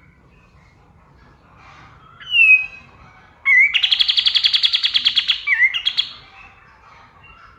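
Kapas tembak songbird singing: a falling whistle, then a loud, rapid trill of many quick notes lasting about two and a half seconds and ending in a short slurred note, over faint scattered chirps.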